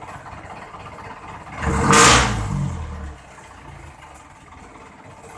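Jeepney diesel engine idling through a new all-stainless muffler, revved once sharply about two seconds in, the rev dying back to idle by about three seconds.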